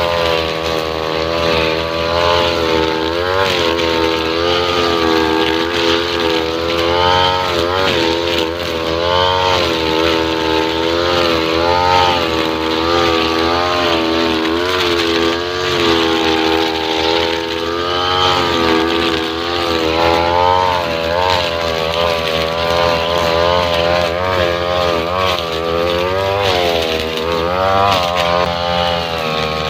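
Two-stroke 328 brush cutter engine running, fitted with a nylon-line trimmer head for cutting grass. Its pitch keeps dipping and rising, with no long steady stretch.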